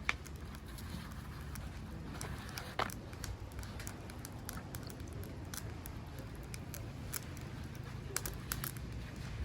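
Wood campfire crackling: scattered sharp pops and snaps, the loudest just after the start and a little before 3 s, over a steady low rumble.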